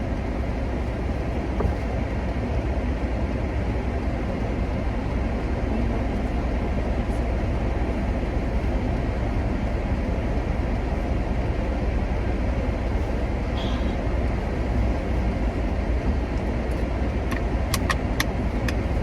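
Steady low rumble of a car running, with a few faint clicks near the end.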